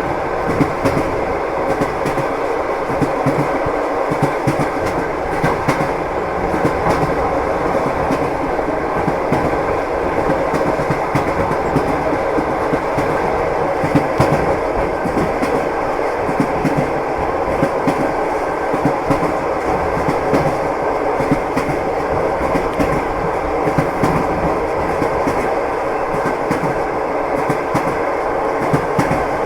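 Train wheels clattering over rail joints, heard as a steady rumble with repeated clicks, as from inside a moving passenger carriage.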